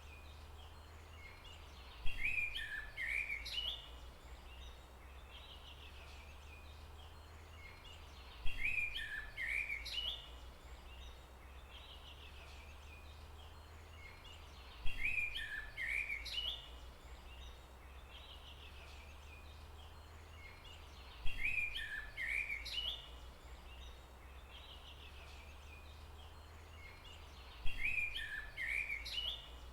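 A bird singing the same short phrase of quick chirps, about two seconds long, five times at even intervals of about six seconds, over a steady low rumble.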